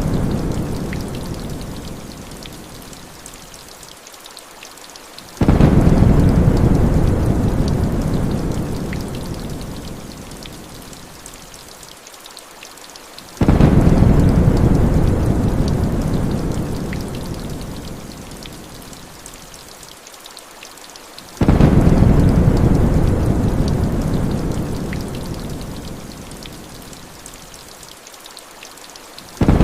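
Heavy rain hissing steadily, with a low thunder rumble that starts abruptly and fades away over about six seconds, repeating at even eight-second intervals like a looped storm recording.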